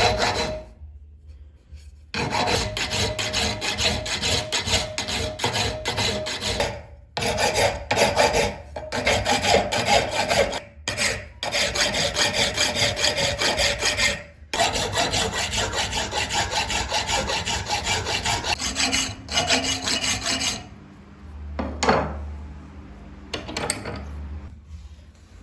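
Steel of the sprocket blank being abraded by hand, a continuous rasping scrape in long stretches with short pauses, stopping a few seconds before the end.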